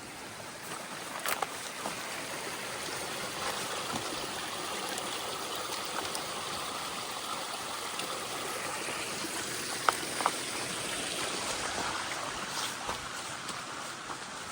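Rain-swollen creek water rushing and splashing steadily over rocks, with a few sharp clicks, once about a second in and twice close together near ten seconds.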